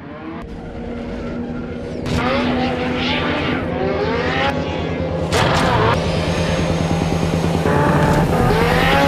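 Car engine revving hard in repeated rising sweeps, over background music.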